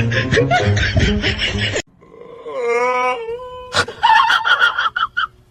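Music that cuts off about two seconds in, then a long wailing call that dips in pitch and holds steady, a sharp click, and a quick run of short cries.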